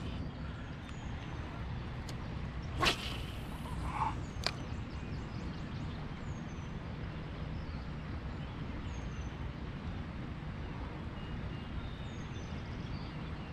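A fishing rod cast whips through the air about three seconds in, followed a second and a half later by a sharp click. Under it runs a steady low outdoor rumble with faint, short, high chirps.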